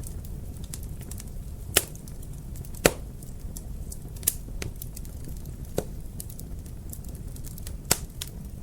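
Wood fire crackling in a fireplace: a steady low rumble of flames with scattered sharp pops and snaps, five louder ones spread through the middle.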